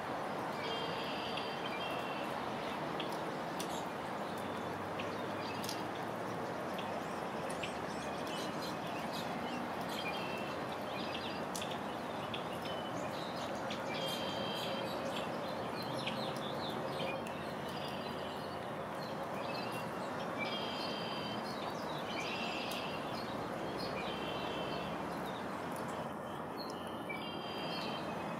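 Songbirds chirping in short, repeated phrases every second or two over a steady hiss of rain.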